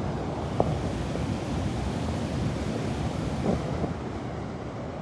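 Steady rushing of water from a waterfall, with a single light tap about half a second in.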